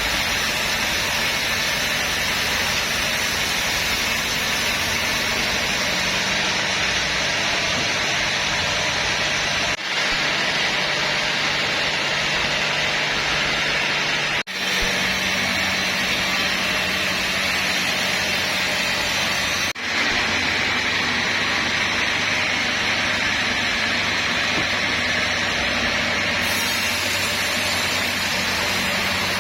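Sawmill machinery running steadily: an engine-like drone with a loud hiss over it, briefly breaking off three times.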